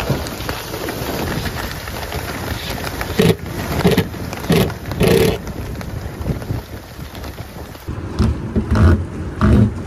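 Steady rain, broken by several loud thumps and rustles.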